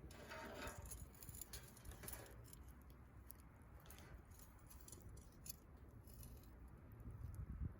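Faint crackling of a wood campfire: sparse sharp pops and ticks over a soft hiss.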